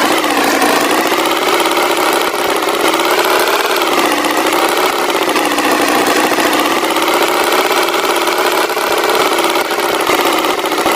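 Tractor engine running steadily, its pitch wavering slowly up and down.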